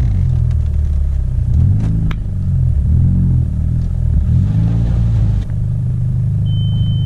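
Mitsubishi Evo X's turbocharged four-cylinder engine heard from inside the cabin, rising and falling in pitch as the throttle is worked while the car creeps forward, then settling into a steady drone. A steady high beep starts near the end.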